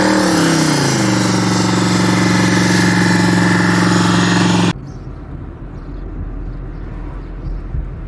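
A car engine held at high revs during a burnout, its pitch dipping and then settling within the first second, with the hiss of spinning tyres. It cuts off abruptly a little under five seconds in, giving way to the quieter steady rumble of a car's cabin on the move.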